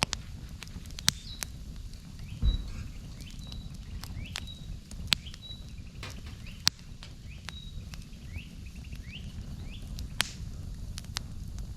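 Wood campfire crackling, with irregular sharp pops over a steady low rumble. A bird calls in short rising chirps through the middle.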